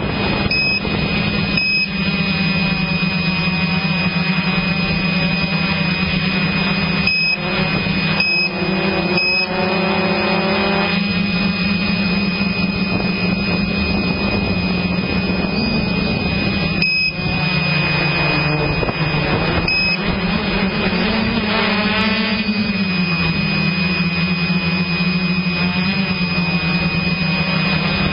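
Motocross bike engine running at a mostly steady pitch, rising briefly about ten seconds in and again past the twenty-second mark, with short dropouts in the sound.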